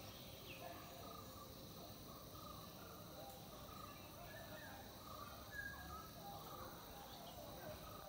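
Faint birds calling: short chirps and notes scattered throughout, over a steady background hiss.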